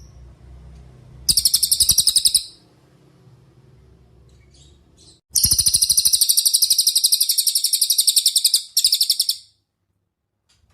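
Cililin songbird trilling: a short burst of fast, high-pitched repeated notes, then a longer trill of about three seconds at roughly ten notes a second that breaks briefly and picks up again. A faint low hum sits underneath.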